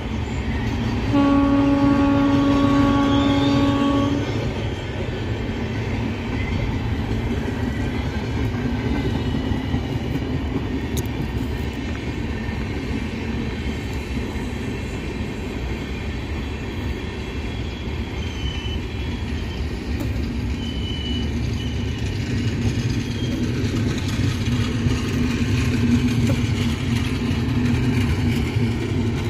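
Passenger express train passing: a locomotive horn sounds one steady blast of about three seconds starting a second in, then the LHB coaches roll by with a steady rumble of wheels on the rails.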